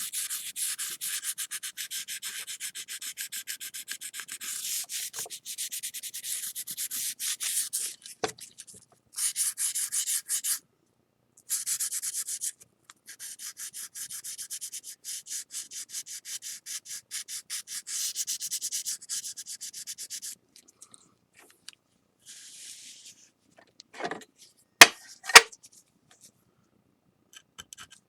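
Sandpaper rubbing in quick back-and-forth strokes on a glazed ceramic plate, sanding off excess lacquer from a kintsugi repair, with a few brief pauses. The rubbing stops about two-thirds of the way through, and two sharp knocks follow near the end.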